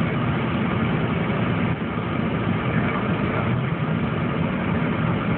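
Car engine and cabin noise heard from inside the car: a steady low hum with a lighter hiss above it.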